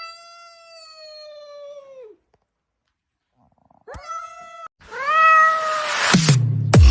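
A cat meowing: one long, drawn-out meow that falls at its end, a short meow about four seconds in, then a louder, rougher meow. Electronic music with a heavy bass beat cuts in near the end.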